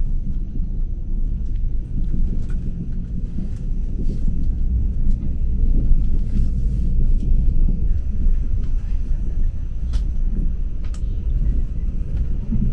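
Steady low rumble of a Korail passenger train in motion, heard from inside the carriage, with a few faint sharp clicks.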